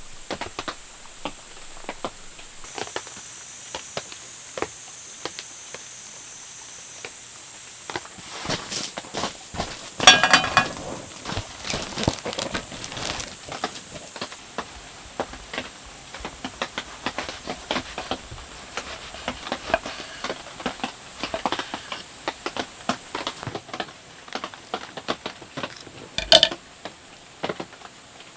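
Rain pattering in irregular drops over a steady faint hiss, with two louder clattering knocks, one about ten seconds in and one near the end.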